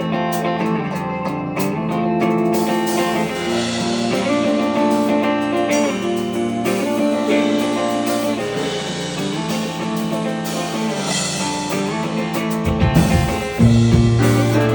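Live band playing a song's instrumental intro: sustained guitar chords, with a heavier, louder low end coming in near the end as the rest of the band joins.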